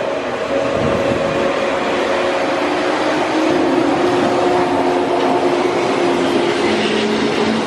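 Resort Yamadori, a converted 485-series electric train, moving slowly past a station platform: a steady rumble of wheels and running gear with a few steady hums that come and go.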